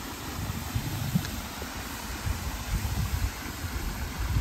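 Wind buffeting the microphone in uneven low gusts, over a steady rush of flowing river water.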